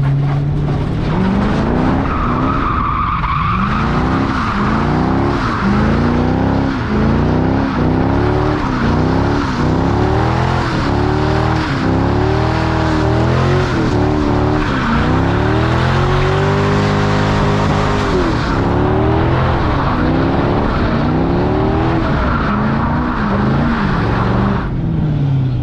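A C5 Corvette drift car's LS1 V8 revving up and down again and again through a drift run, about a dozen rises and falls with one longer held rev past the middle, over steady tire squeal. Near the end the revs fall away and the tire noise stops.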